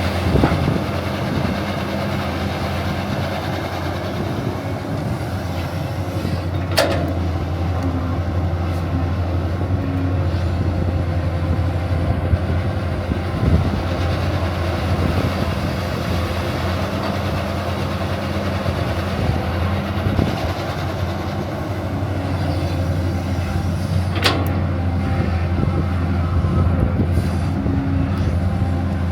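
A machine running with a steady low hum that does not change, broken by two sharp clicks, one a quarter of the way in and one near the end.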